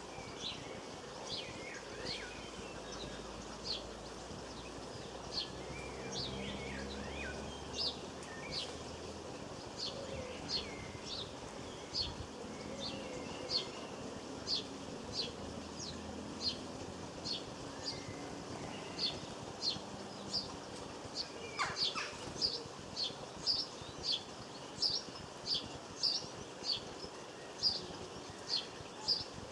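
Small garden birds calling: a long run of short, high chirps, about one to two a second and coming faster in the second half, with a few twittering notes early on and one long falling call a little after two-thirds of the way through.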